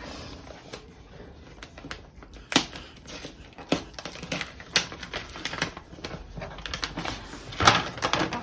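Irregular clicks, knocks and crinkling of a boxed item and its wrapping being handled and unpacked, with two sharper knocks about two and a half seconds in and near the end.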